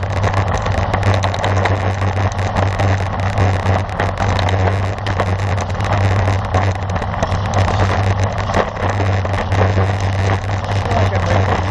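Steady low rumble and hiss of a road bike ridden at speed: wind buffeting the camera microphone over tyre noise on the road, with light crackling.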